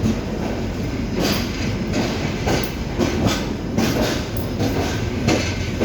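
Passenger express train rolling through the station, its wheels clattering over rail joints with a click roughly every half second to second over a steady rumble.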